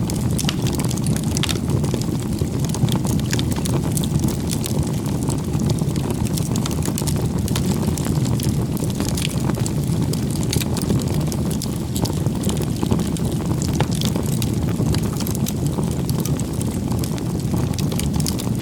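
Campfire crackling: frequent small irregular snaps and pops over a steady low rumble.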